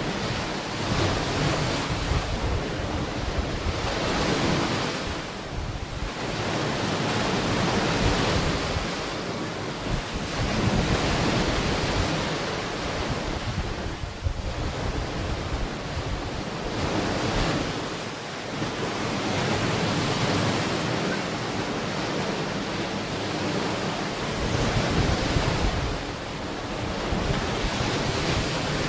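Ocean waves breaking and washing onto the shore, the surf swelling and easing every few seconds, with wind buffeting the microphone.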